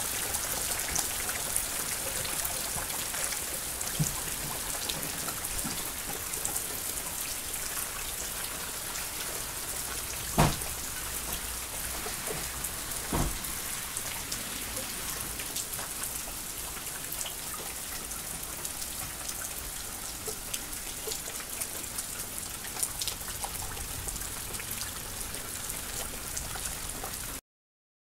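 Heavy thunderstorm rain pouring down, a steady hiss full of fine drop ticks, with a few louder sharp knocks of drops striking something close by. The sound cuts off suddenly near the end.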